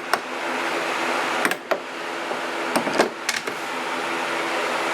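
A steady mechanical hum with several short, sharp knocks and clanks of tools on metal parts, scattered irregularly, including a quick pair about a second and a half in and a few more around three seconds in.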